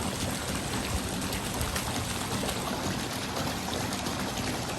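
Steady running water, an even rushing sound with no breaks.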